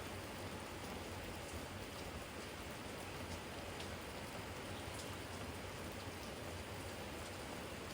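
Steady rain falling on a garden jar, an even patter with a few separate drops ticking now and then.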